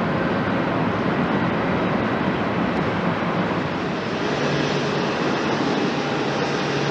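Steady jet airliner engine noise, loud and even, with a slight change in its tone about four seconds in.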